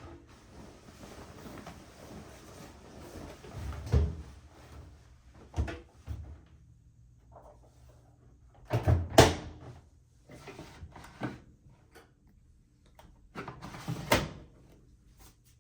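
Household handling sounds: soft rustling at first, then a series of separate knocks and clunks, the loudest a pair about nine seconds in and another near the end.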